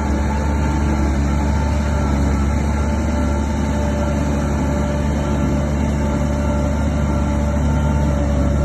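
Heavy diesel engine of a bulldozer running at a steady speed: a loud, even, low drone with a few steady higher tones over it.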